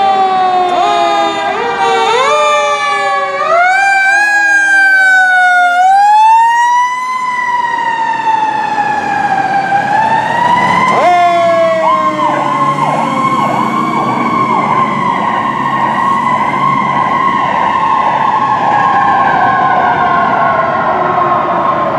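Fire truck sirens sounding close by. A fast repeating yelp gives way to a slow rising and falling wail, and a second siren joins in about eleven seconds in, the two overlapping.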